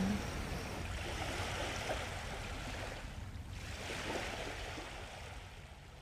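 Waves washing onto a sandy beach in a steady hiss of surf, fading out near the end.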